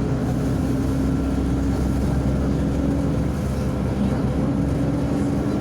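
Diesel engine of a MAZ-105.065 city bus running steadily while under way, heard from inside the bus, with road rumble beneath it.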